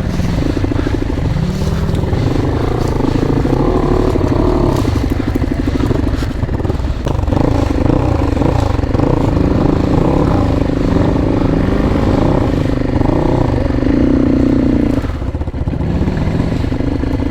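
Dirt bike engine revving up and down again and again on a rough off-road trail, easing off about fifteen seconds in.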